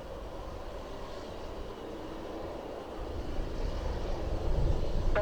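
Leonardo AW139 helicopter on approach: its engines and rotor make a steady noise, with a low rumble that grows louder from about halfway through as it comes closer.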